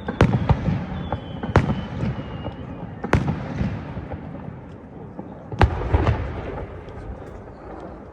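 Aerial fireworks shells bursting: four loud booms about a second and a half to two and a half seconds apart, each trailing off slowly, with lighter crackles in between, dying down near the end.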